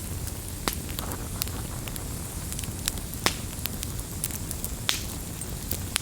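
Campfire crackling: a steady low rumble of burning with irregular sharp pops and snaps, the loudest a little past three seconds in.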